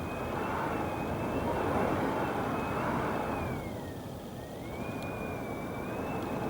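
Strong gusting wind, gusts over 40 mph. A gust swells and eases about four seconds in, then picks up again. A thin, high whistle wavers in pitch above it.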